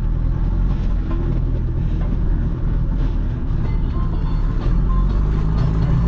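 Off-road vehicle engine running steadily with a low rumble, with music playing along.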